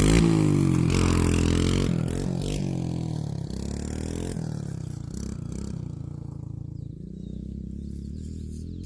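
Dirt bike engine revving, its pitch rising and falling, then running more steadily as the bike moves off and grows fainter.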